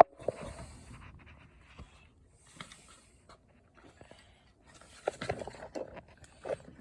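Handling noises: a sharp click at the start, then scattered small clicks, knocks and rustling, busier about five seconds in.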